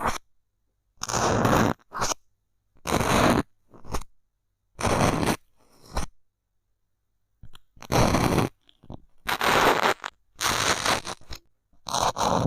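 Bamboo stick pressed and rubbed against a close microphone in short scraping strokes, about seven of them, each under a second, with silence between and a longer pause in the middle.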